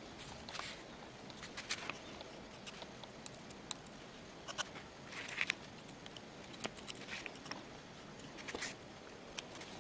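Faint handling noises: scattered small clicks and taps at irregular times, with a few brief scratchy rustles, the loudest about five and a half seconds in.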